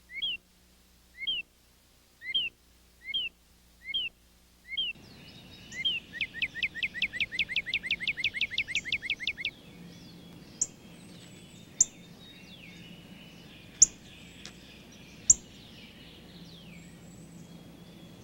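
Northern cardinal singing: six slurred whistles under a second apart, then a fast trill of down-slurred notes lasting about three and a half seconds, followed by four sharp chip notes over a faint hiss.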